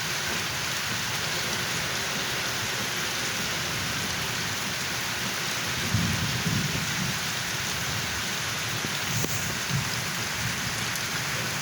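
Steady heavy rain falling and pattering on surfaces, with low rumbles swelling briefly about six seconds in and again near the end.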